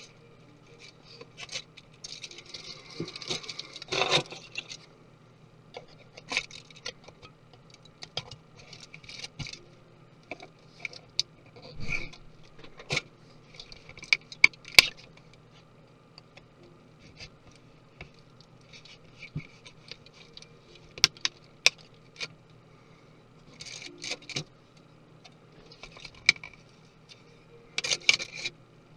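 Small tools and metal parts clicking, tapping and scraping as a MacBook Pro laptop is taken apart, in irregular bursts with the loudest rattles a few seconds in and near the end, over a steady low hum.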